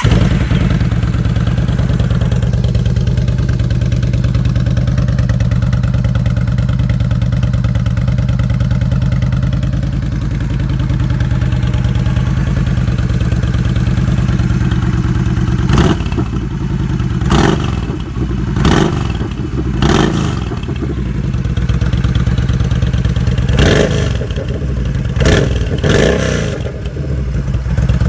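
2012 Yamaha V Star 950's air-cooled V-twin running through a Roush slip-on exhaust with 2-inch slash-cut baffles: a steady idle for about the first half, then several short throttle blips in the second half.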